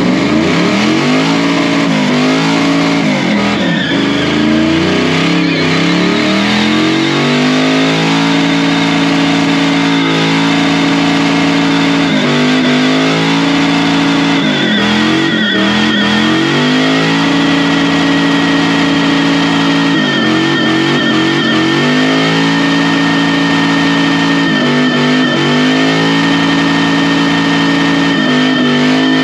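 Chevrolet 5.3 LS V8 in a 1976 C10 pickup held at high revs during a burnout, its pitch dipping and climbing back every few seconds as the throttle is worked, with a thin steady squeal from the spinning rear tires above it.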